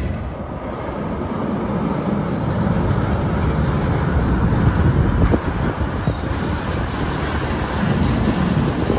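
A train rolling past: a steady rumble of railcar wheels on the rails, with a couple of sharp clanks a little past halfway.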